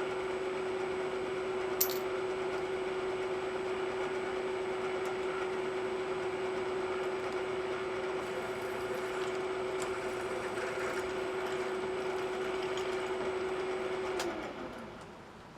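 Metal lathe running at a steady speed with a constant hum, a single click about two seconds in. Near the end it is switched off and the hum falls in pitch as the spindle winds down.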